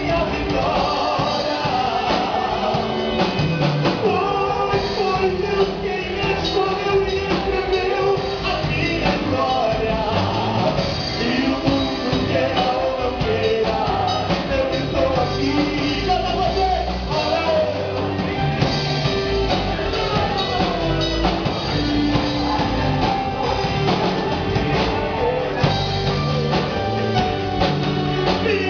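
A live band playing a rock-style song with vocals, drum kit and guitars, loud and steady.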